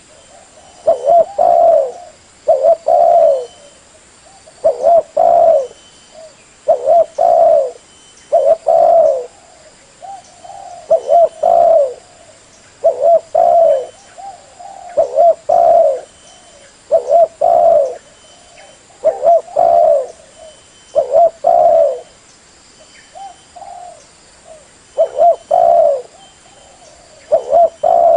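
Spotted dove (derkuku) cooing over and over in short phrases of two or three low notes, about one phrase every two seconds.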